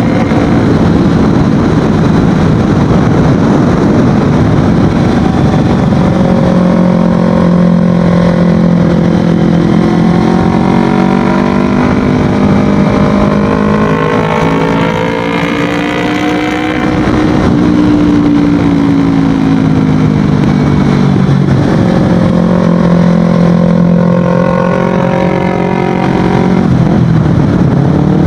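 Kawasaki Ninja 250FI parallel-twin engine running through an aftermarket Akrapovic exhaust while riding. It holds a steady note, then the pitch climbs for several seconds as it accelerates, dips briefly about two-thirds of the way in, and falls back to a steady note again.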